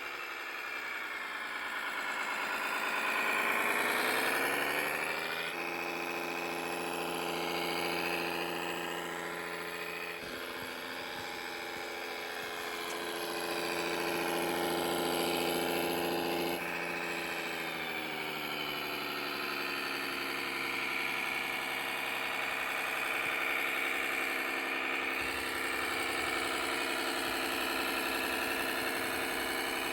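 Engine sound of an RC model vehicle, a diesel idling and revving from its electronic sound unit: the pitch sweeps down and up in the first few seconds, holds steady, shifts again about halfway through, then runs on steadily.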